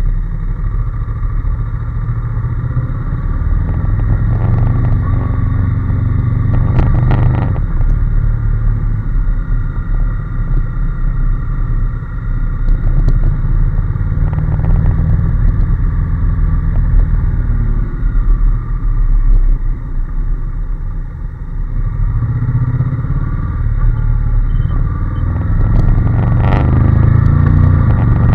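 Honda NC750S's parallel-twin engine running under way on the road, its revs rising and falling several times.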